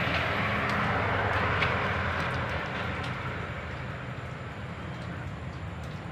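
A steady low mechanical rumble under a rushing noise that slowly fades over the first few seconds, then holds at a lower level.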